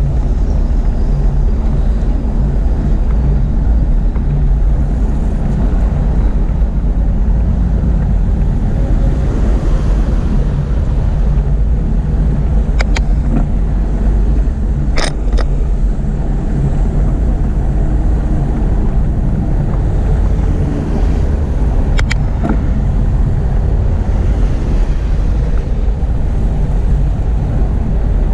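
Steady low rumble of wind and road noise from a moving bicycle ride, with a few sharp clicks or knocks about halfway through and again later.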